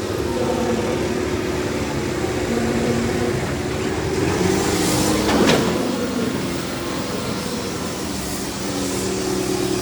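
Diesel tractor engines running hard under load, several engine notes at once, with a brief louder burst about five and a half seconds in.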